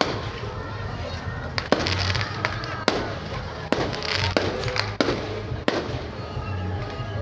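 Aerial fireworks going off in a string of sharp bangs, roughly one every half second to second, with crackling between them, over background music.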